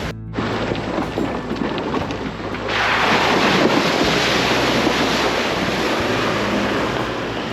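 Chevy Colorado ZR2 pickup driving on a trail: a steady low engine hum under a loud rushing noise of tyres and wind, which swells about three seconds in.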